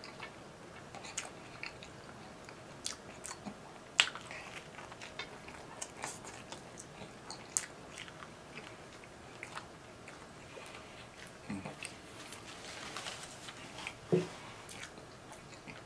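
A person biting and chewing a Subway footlong sandwich roll close to the microphone: soft wet mouth clicks and smacks, the sharpest about four seconds in.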